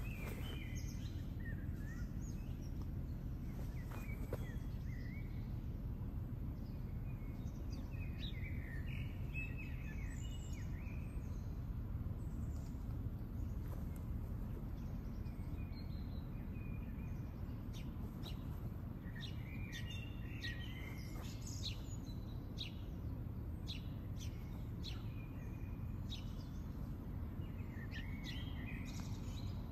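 Songbirds singing in park trees: scattered chirps and short song phrases, coming in clusters, busiest near the middle and again near the end, over a steady low background rumble.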